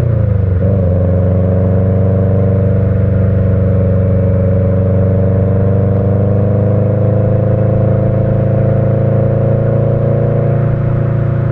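Subaru EJ20 turbocharged flat-four with unequal-length headers and a Kakimoto Regu.06&R muffler, giving its uneven boxer rumble. The revs drop sharply right at the start and waver for a moment, then the engine pulls on with a steady note that rises slowly.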